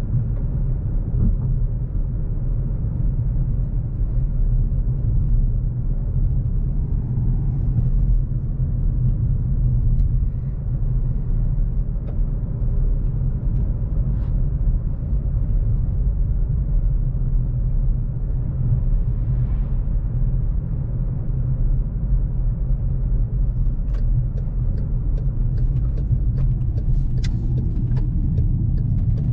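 Volkswagen CC 3.6 FSI driving at a steady speed: a steady, low rumble of its VR6 engine and road noise, with no revving. A few faint clicks near the end.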